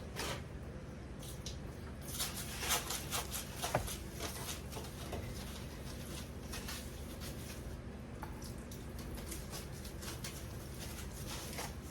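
A cloth wiping and scrubbing a stovetop: many short rubbing and tapping sounds, busiest a couple of seconds in and sparser later, over a steady low hum.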